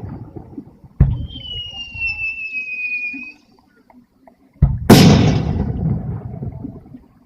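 Aerial fireworks shells bursting at a fireworks display: a boom about a second in with a thin whistle falling slightly in pitch after it, then a louder boom about four and a half seconds in that rumbles away over two to three seconds.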